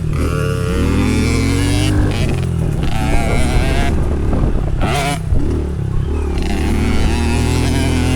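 Small dirt bike engine running hard, its revs climbing and falling repeatedly as the throttle is worked, with a short dip in the sound about five seconds in.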